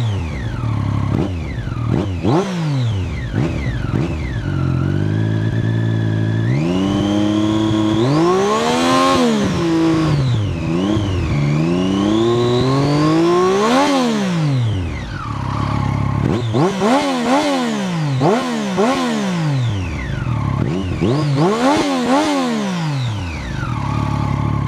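Motorcycle with an Arrow aftermarket exhaust can, revved repeatedly while standing: the engine climbs and drops in pitch, holds a high rev for a few seconds about a third of the way in, then gives a run of quick blips. It settles back to a low, bassy idle near the end.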